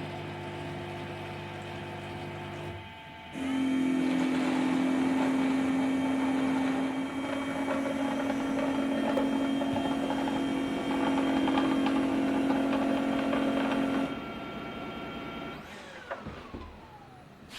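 yeedi Mop Station robot vacuum washing its mop pads in its base station. A steady motor hum runs for about three seconds and pauses briefly. A louder motor run with a rushing noise over it follows for about ten seconds, then drops quieter and ends with a falling whine as the motor winds down near the end.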